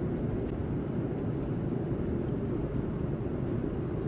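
Steady low rumble of Boeing 787-9 cabin noise in flight: engine and airflow noise heard from inside the cabin.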